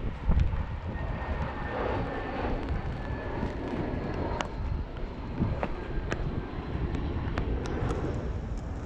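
Jet airliner on its landing approach, a steady low rumble with a faint high engine whine over it, mixed with wind buffeting the microphone. A few sharp clicks come in the second half.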